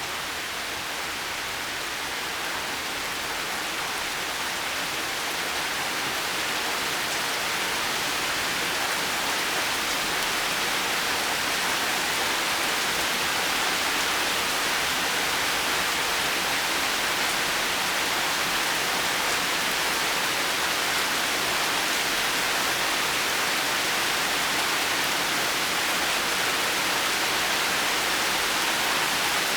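Steady, dense rain falling, an even hiss with no separate drops or thunder, growing a little louder over the first few seconds.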